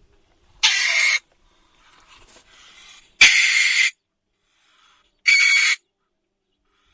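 An owl screeching: three harsh, hissing screeches of about half a second each, a couple of seconds apart.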